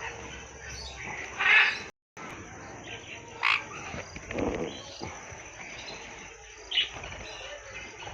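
Cage birds in an aviary chirping and calling: a steady chatter with a few short, sharp, louder calls scattered through it. The sound drops out briefly about two seconds in.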